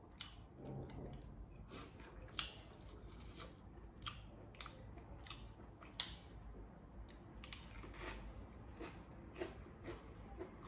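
A person chewing a mouthful of spicy cucumber salad close to the microphone: faint, irregular crunches, about two a second.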